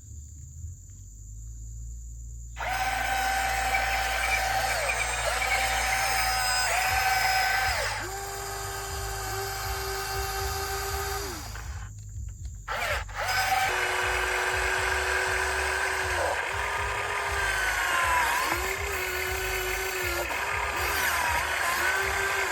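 RC hydraulic excavator's electric pump motor whining as the controls are worked. Its pitch holds steady, then sags and steps to a new level with each change of load. The whine starts a couple of seconds in after a low rumble and cuts out briefly about halfway through.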